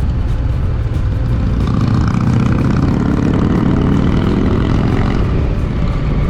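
Motorcycle under way at road speed: the engine runs steadily beneath a heavy rush of wind on the microphone.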